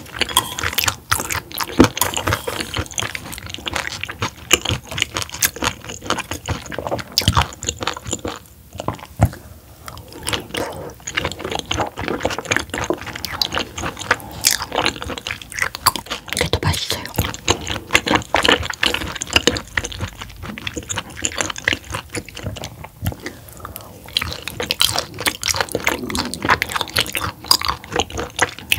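Close-miked mouth sounds of chewing raw roughscale sole: a dense, irregular run of small clicks that carries on throughout.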